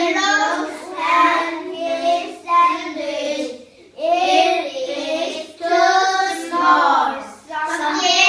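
A child singing alone, in high-pitched sung phrases with short breaks about four seconds and seven and a half seconds in.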